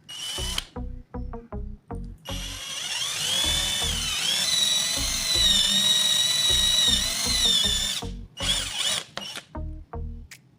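Small electric power tool, drill-like, running for about six seconds from roughly two seconds in. Its high whine wavers up and down in pitch as the load changes. Short knocks come before and after it.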